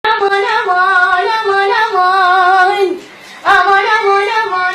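A high voice singing an Iraqi folk song in long held notes with a wavering vibrato, breaking off briefly about three seconds in before starting a new phrase.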